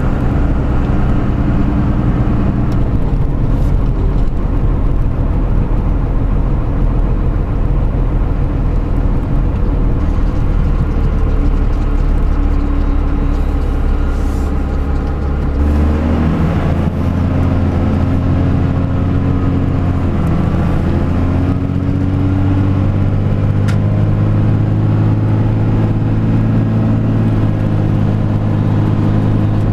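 Pickup truck driving: a steady engine note with road noise. Around halfway through, the engine note steps up in pitch and holds at the higher note.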